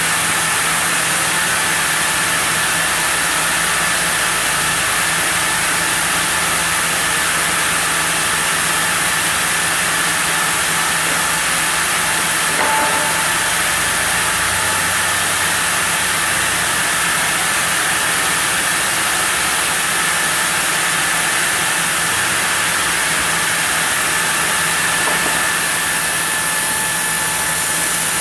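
Sawmill saw running steadily through a block of zelkova as it is sawn into boards: an even machine noise with a faint high whine.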